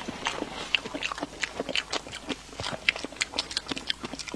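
A person chewing food, with a quick, irregular run of short mouth clicks and smacks.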